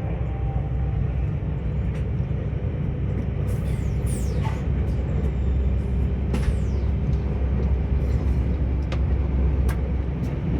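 Tilt Train running at speed, heard on board as a steady low rumble with scattered clicks. Two brief high falling-pitch sounds come about four and six and a half seconds in.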